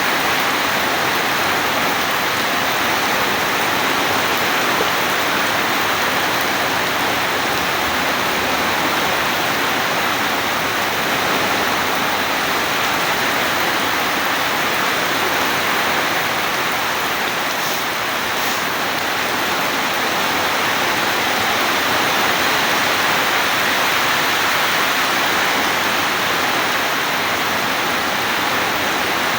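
Steady, heavy rainfall: a continuous, even hiss of rain with no thunder.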